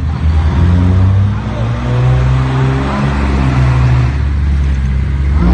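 Heavy diesel engine of earth-moving machinery running hard, its pitch rising and falling a few times.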